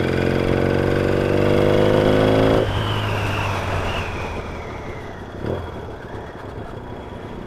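Yamaha XS650 650 cc parallel-twin motorcycle engine pulling hard under acceleration, its note rising in pitch. About two and a half seconds in, the throttle shuts off abruptly, and the engine note drops and fades as the bike slows.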